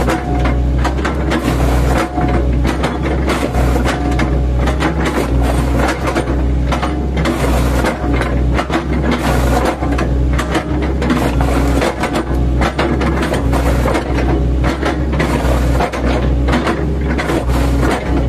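The diesel engine of an 8-ton mini excavator runs steadily under load, with a dense run of cracks and knocks as its bucket, fitted with chipping blades, chops oil palm trunks.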